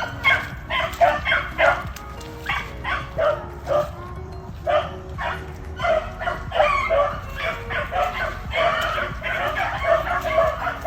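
A pack of beagles baying on a rabbit's trail, many quick overlapping bawls and yips from several dogs at once. This is the hounds giving tongue as they run the rabbit.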